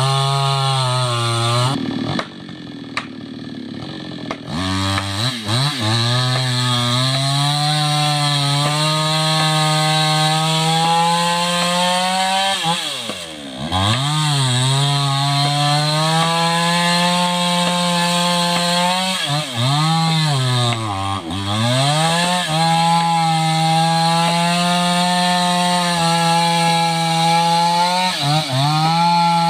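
Chainsaw cutting into the trunk of a large gmelina tree. The engine drops to a low idle for a couple of seconds near the start, then revs up and runs at full throttle under load. Its revs sag and pick up again a few times.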